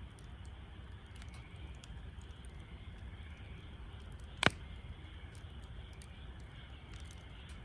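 Wood fire in a Snow Peak Takibidai L fire stand crackling with faint scattered ticks over a steady low rumble, with one loud sharp pop about four and a half seconds in.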